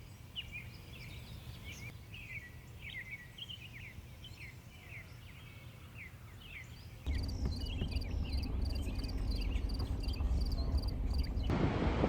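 Small birds chirping in quick, short high notes over quiet outdoor ambience. About seven seconds in the sound cuts to a louder clip with a low rumble and a rapid, evenly repeated high chirping. Near the end it cuts again to wind noise on the microphone.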